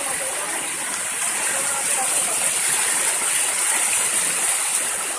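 Steady rushing hiss of floodwater flowing like a river in the rain.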